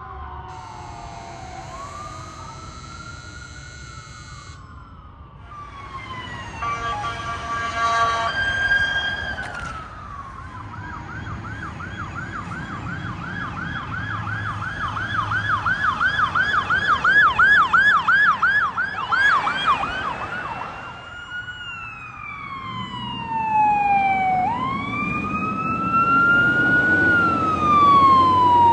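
Sirens of responding fire, police and ambulance vehicles. A wail sweeps down and up, a horn blasts about seven seconds in, and then a fast yelp of about two cycles a second builds and grows louder. Near the end the wail sweeps down and up again over the low rumble of a heavy engine.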